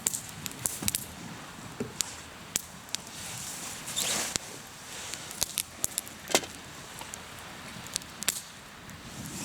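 Hardwood campfire crackling, with irregular sharp pops and snaps and a short hissing burst about four seconds in.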